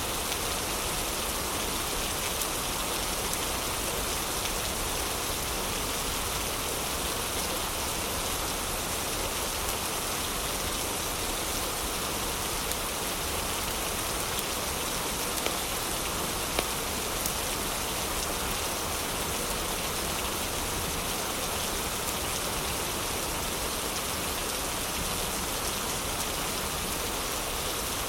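Steady heavy rain, a dense even patter of drops. A few faint sharp clicks stand out briefly about halfway through.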